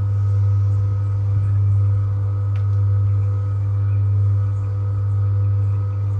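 A steady low machine hum, swelling and fading gently about every second and a half.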